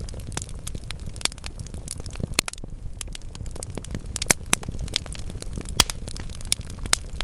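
Wood fire burning in a fireplace: logs crackling with irregular sharp pops over a low steady rumble of the flames.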